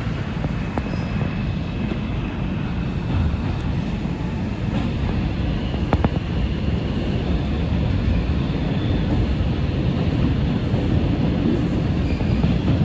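R142 subway car running at speed between stations, heard from inside: a steady rumble of wheels on rail, with a faint high tone for a few seconds in the middle and a sharp click about six seconds in.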